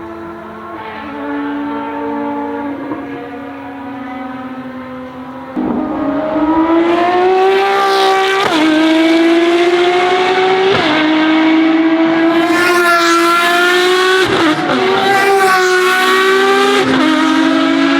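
Ferrari FXX Evoluzione's V12 engine at full throttle on track. A steadier, quieter engine note gives way about five and a half seconds in to a loud run, the pitch climbing through the gears with four quick upshifts, each a brief break and drop in pitch.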